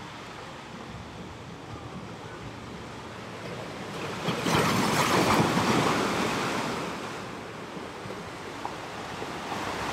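Ocean surf: a steady wash of waves that builds into one larger wave breaking about four seconds in, then ebbs away by about seven seconds.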